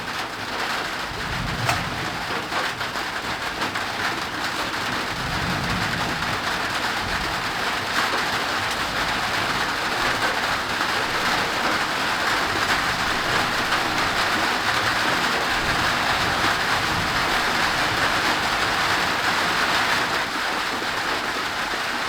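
Steady downpour of thunderstorm rain, growing heavier over the first ten seconds or so. Low rumbles of thunder come through twice in the first several seconds.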